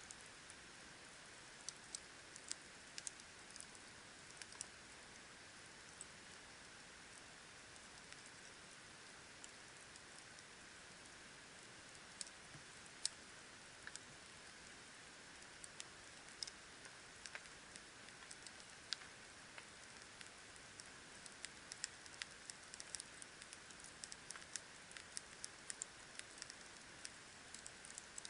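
Wood campfire crackling: irregular sharp pops and crackles over a faint steady hiss, sparser in the first half and coming thicker toward the end.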